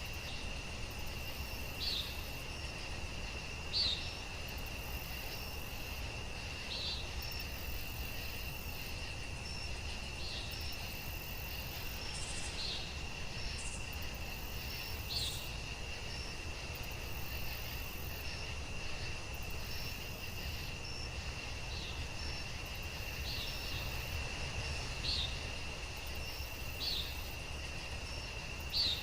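Night nature ambience: a steady high-pitched cricket trill, with short, higher chirps every couple of seconds over a low steady rumble.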